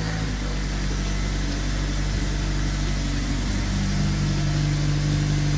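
Nissan Silvia S15's engine idling steadily.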